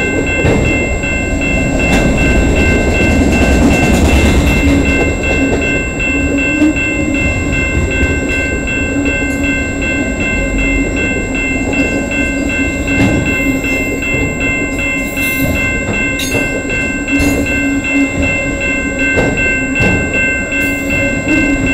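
Freight train cars rolling past, wheels knocking over the rail joints with a steady rumble and a few thin high tones ringing over it.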